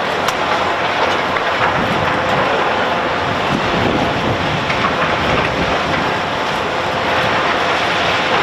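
Heavy construction machinery at work: a loud, steady mechanical noise with a few faint clicks.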